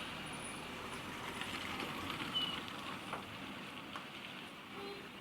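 Steady hiss of rain falling, with the low running of a vehicle underneath.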